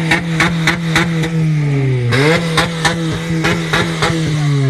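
A car engine revved and held at high speed with about five sharp pops a second over it. It drops off about two seconds in, is revved straight back up, and eases down again near the end.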